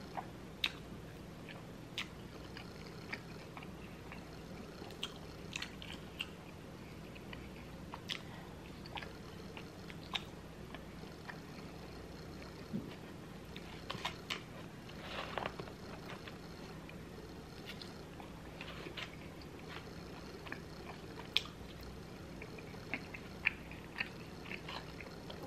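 Close-miked chewing and mouth sounds of a person eating loaded fries, with scattered short sharp clicks and smacks, busiest about fifteen seconds in, over a faint steady hum.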